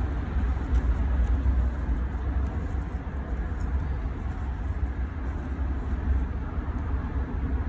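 Steady low background rumble with an even hiss above it and no distinct events.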